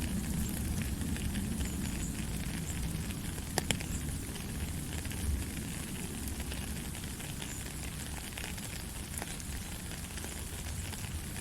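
Steady rain falling, a dense patter of fine drop ticks over a low rumble, with one sharper drop tick about three and a half seconds in.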